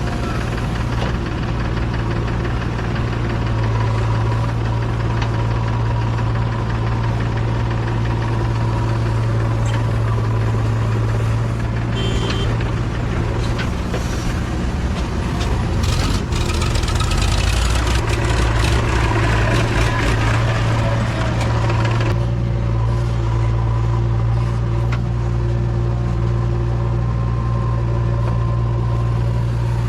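Diesel engine of a JCB 3DX backhoe loader running steadily. It works harder and louder for several seconds past the middle, then drops back to a steady run.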